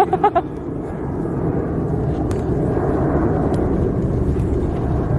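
Steady low rumbling noise, with a short voice at the very start and a few faint clicks or knocks.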